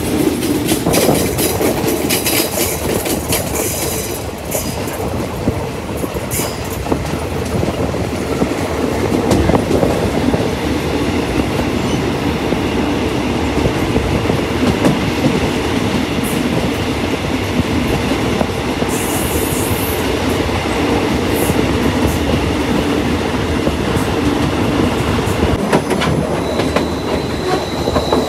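Passenger train running along the line, heard from on board: a steady rumble with the wheels clicking over rail joints. A thin high wheel squeal sets in near the end.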